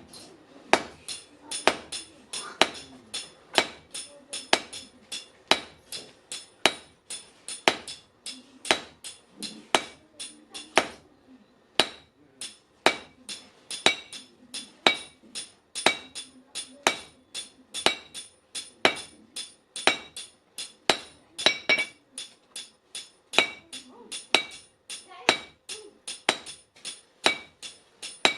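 Hand hammer striking steel from a truck leaf spring on an anvil in a steady rhythm, about two blows a second, each blow ringing metallically. The hammering pauses briefly a little before the middle, then carries on.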